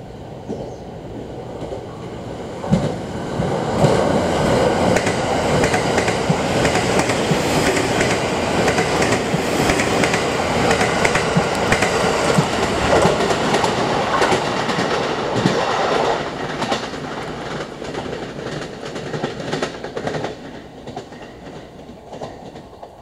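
A JR 285 series electric sleeper train passing through a station, its wheels clacking over the rail joints. The sound builds as it approaches, is loud for about twelve seconds while the cars go by, then fades as it draws away.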